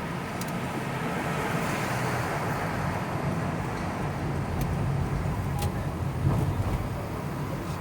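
Steady rumble of road vehicle noise, swelling louder about six seconds in, with a few faint clicks.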